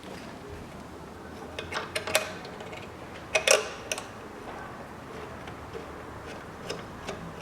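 Metal clicks and clinks of hand tools on a bolt being screwed back in on the engine, in two short clusters about two and three and a half seconds in, with a few lighter ticks near the end.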